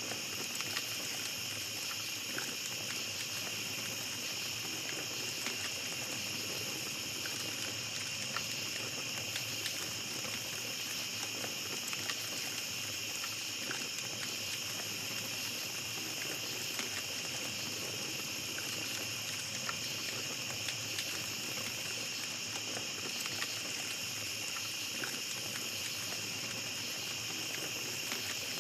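Night insect chorus of crickets, a constant high trilling, with a small campfire crackling softly underneath in scattered faint pops.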